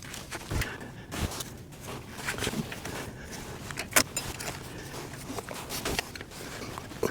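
Hose clips being worked back into place by hand with tools, making scattered clicks and light metal knocks, with one sharp click about four seconds in.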